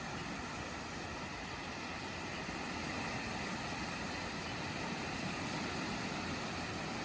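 Steady rushing of sea waves washing on the shore, an even, unbroken wash of noise.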